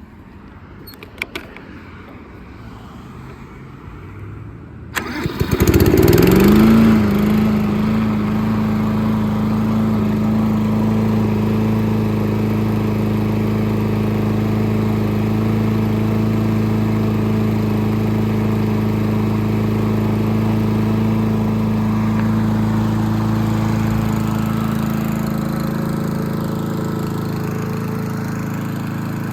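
Craftsman M270 lawn mower's 159cc single-cylinder engine starting about five seconds in, its speed rising quickly, then running steadily at full speed.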